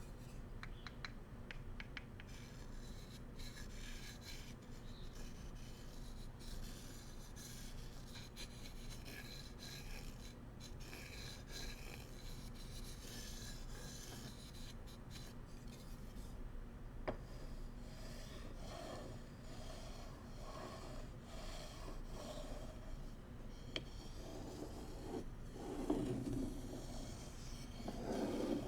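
Bamboo cooking utensils being scratched and rubbed, a dry rasping texture. There are a few light taps in the first couple of seconds, and the rubbing grows louder and lower near the end.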